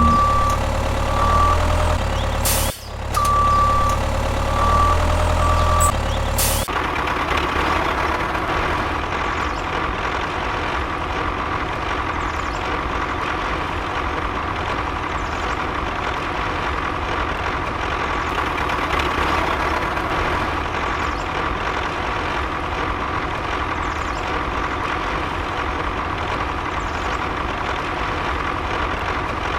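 Steady mechanical running noise with a constant whine, which takes over about six and a half seconds in. Before it there is a stretch of repeated beeps over a low rumble.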